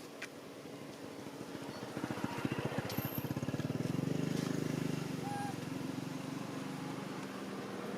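A small engine running, with a fast, even pulse that grows louder about two seconds in and eases off again after about five seconds.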